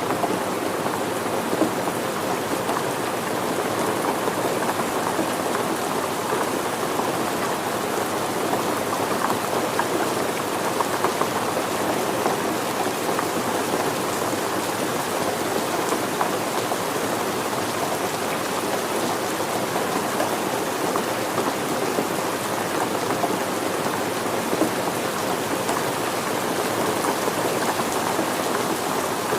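Steady rain falling and pattering on surfaces, an even hiss of many small drops with scattered sharper drop ticks.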